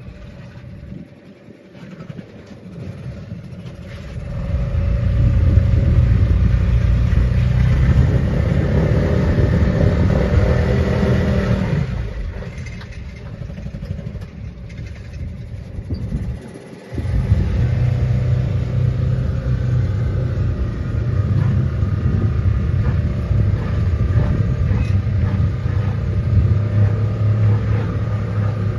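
Motorboat engine running with a low rumble, growing louder about four seconds in, dipping a little midway and cutting out briefly before running on.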